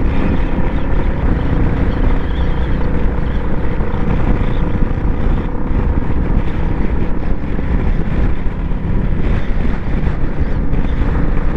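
Royal Enfield Bullet 350's single-cylinder engine running at a steady cruise while riding, with wind rushing over the microphone.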